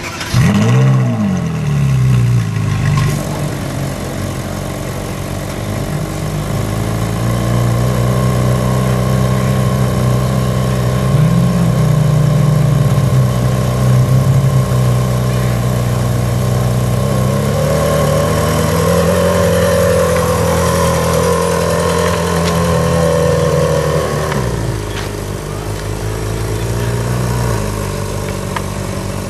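Ferrari 458 Italia's 4.5-litre V8 starting: it catches suddenly with a quick flare that rises and falls, then settles into a steady fast idle. About twenty-four seconds in, the idle drops to a lower, quieter note.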